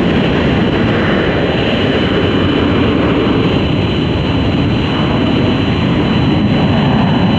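Boeing 767 jet engines on landing approach: loud, steady jet noise with a thin high whine.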